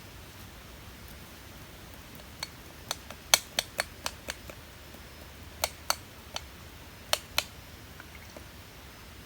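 Sharp clicks and clinks of hard objects knocking together, about fourteen in irregular clusters over some five seconds, the loudest a little over three seconds in.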